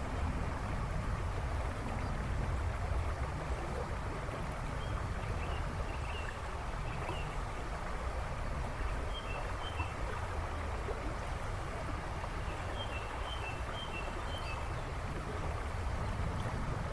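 River water rushing and splashing in a steady wash. Songbirds in the background give short high chirps in three brief runs in the middle.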